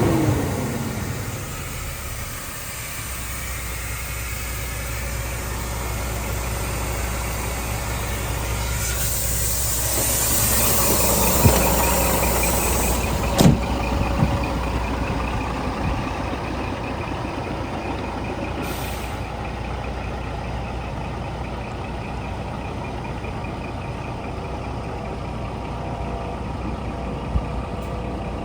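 Scania G420 tractor unit's diesel engine idling steadily. A hiss of air runs for several seconds and cuts off with a sharp click, and a shorter hiss follows later.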